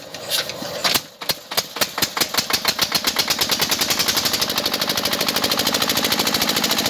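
Rapid mechanical clicking from a small motor-driven mechanism, starting as separate clicks and speeding up within the first couple of seconds to an even rattle of about ten clicks a second.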